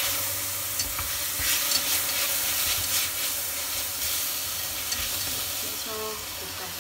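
Sliced beef sizzling as it is stir-fried in a stainless steel pot, with chopsticks clicking against the pot now and then. A short ringing note sounds near the end as a ceramic bowl is tipped against the pot.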